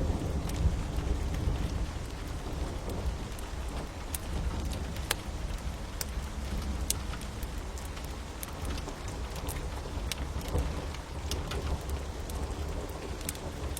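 Steady rain hissing over a low rumble, with scattered sharp crackles and pops of a wood fire.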